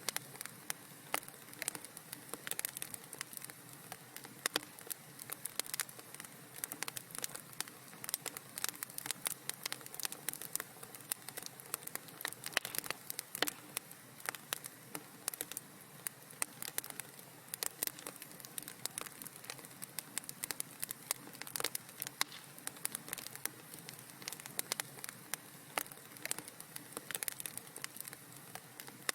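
Fireplace fire crackling: a dense, irregular run of small sharp pops and snaps over a soft steady hiss.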